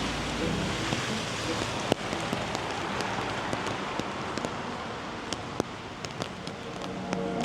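Steady rain falling, with scattered sharp drops ticking on hard surfaces.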